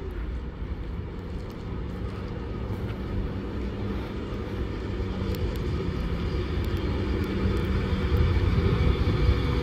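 A train approaching along the line: a steady rumble with a faint hum that grows gradually louder.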